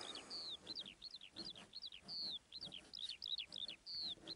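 A bird chirping continuously in quick high chirps, about three or four a second, with a longer falling whistle now and then. Faint scratching of a pencil on paper lies under it.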